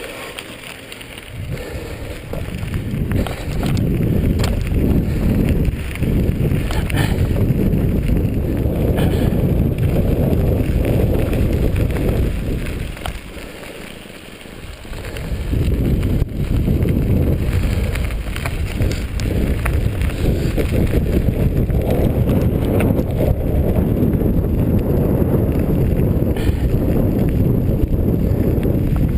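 Mountain bike riding on a dirt trail: a steady low noise of wind on the microphone and tyres and bike rattling over the ground, easing off briefly at the start and again about halfway through.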